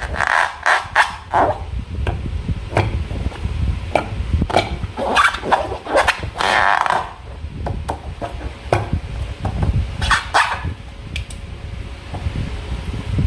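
Slime being worked by hand, a string of irregular wet squelches, some coming in quick clusters.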